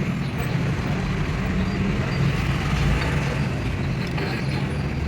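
Steady low mechanical rumble of a running motor or engine.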